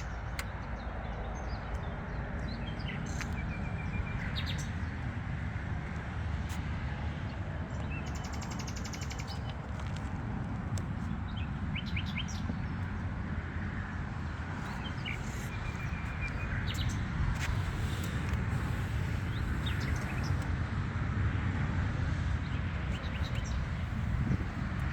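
Birds chirping and trilling in short, scattered calls over a steady low background rumble.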